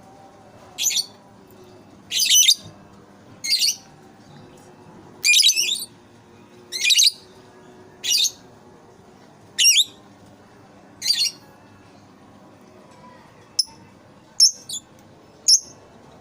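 Lovebird giving shrill, chattering calls in short bursts about every second and a half, then a few quicker, sharper chirps near the end.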